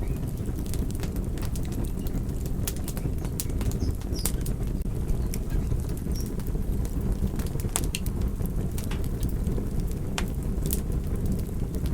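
Fire crackling: a steady low rumble of burning with frequent sharp pops and snaps scattered irregularly throughout.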